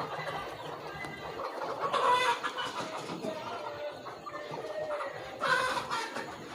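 A flock of chickens in a poultry house, many birds clucking and calling at once, with two louder calls standing out, about two seconds in and near the end.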